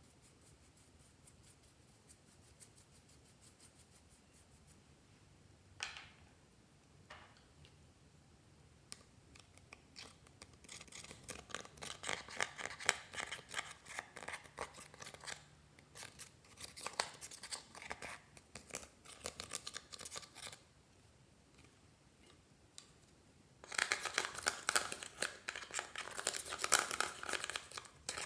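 Clear slime being worked by hand, giving runs of dense, crisp clicking and popping. One run starts about ten seconds in and lasts about ten seconds; after a short pause, another starts near the end.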